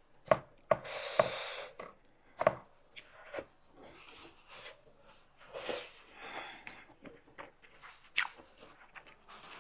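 Close-miked eating of veg momos: sharp mouth and utensil clicks and wet chewing, with a longer hissy noise about a second in.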